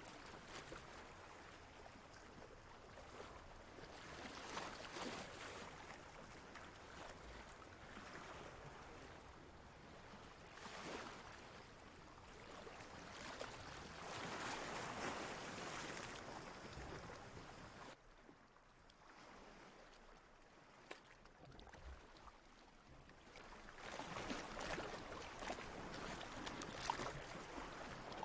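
Ocean waves washing in and drawing back, a soft rushing that swells and fades every few seconds, quieter for a few seconds about two-thirds of the way through.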